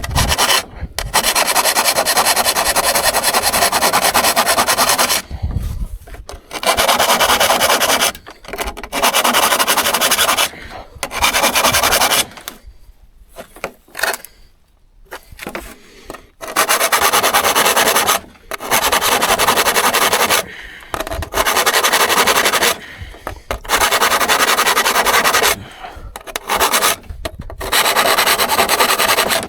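Hand abrading of a steel hand saw, a harsh rubbing scrape in long strokes of a few seconds each with short pauses, and a longer pause about halfway through.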